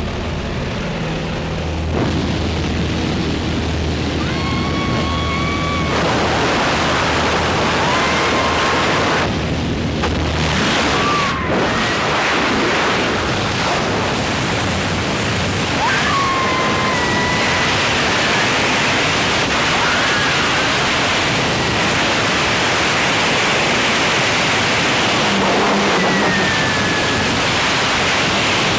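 Loud, steady rush of wind over the microphone in skydiving freefall at about 120 mph, with a few short high whistling or cry-like glides.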